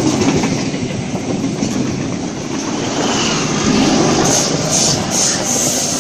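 NSW TrainLink XPT passing at speed, a steady rumble and clickety-clack of wheels on the rails. Brief high hissing sounds about four to five seconds in.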